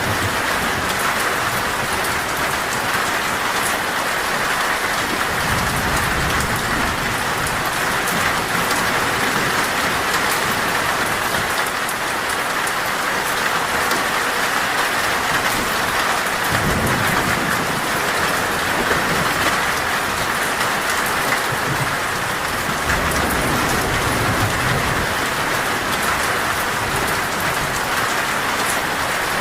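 Torrential rain drumming steadily on a metal roof, a dense even hiss, with low rolls of thunder rumbling up several times.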